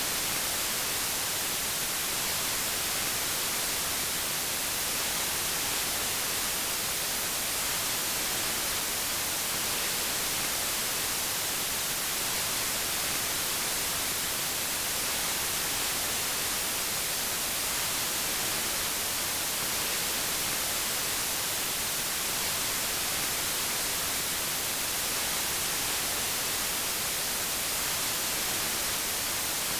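Steady synthetic white noise: an even hiss, strongest in the high frequencies, with no changes.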